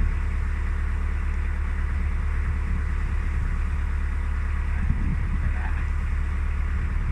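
Narrowboat's diesel engine running steadily while cruising, a constant low rumble with no change in speed.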